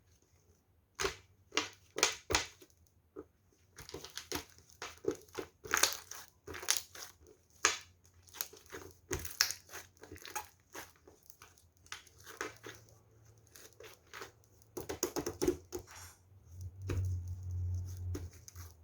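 Clear slime being squeezed, stretched and poked by hand, giving off irregular sticky clicks, pops and crackles in quick clusters, with a low hum joining near the end.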